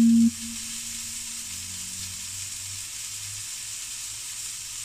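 Duck breast sizzling in a frying pan, a steady hiss of fat frying. A short, loud, low steady tone sounds right at the start, then fades away faintly.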